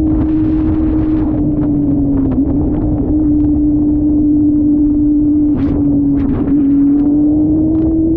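Motorcycle engine running at a steady held speed, its pitch dipping slightly a few times, over a low rumble.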